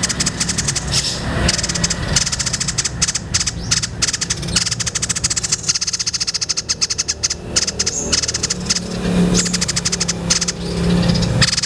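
White-breasted babbler (tepus dada putih) singing a long song of rapid, rattling high trills, broken by brief pauses, over a steady low hum.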